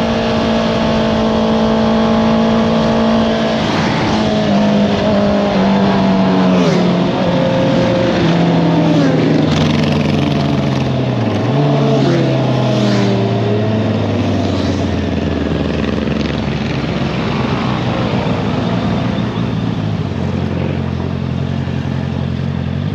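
Honda CBR650R inline-four through an Akrapovič exhaust, held at steady high revs, then rolling off and dropping down through the gears with short throttle blips. It settles at lower revs for the rest of the time.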